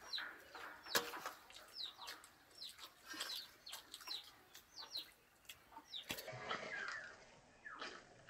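Faint bird calls: short, high, downward-gliding chirps about twice a second, like farmyard fowl, with a few sharp clicks among them.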